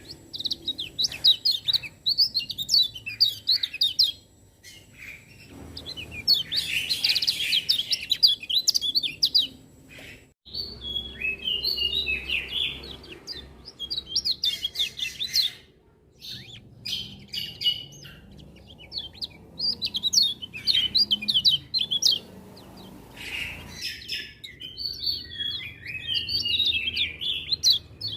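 Kecial kuning (a white-eye) singing in fast runs of high, twittering chirps, in bursts of a few seconds with short breaks between them.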